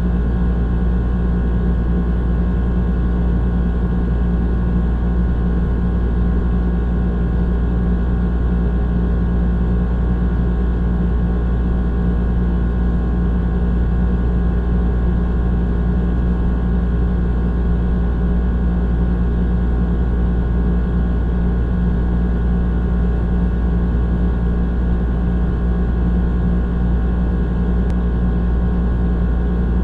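Old air conditioner running with a steady, unchanging low hum and drone.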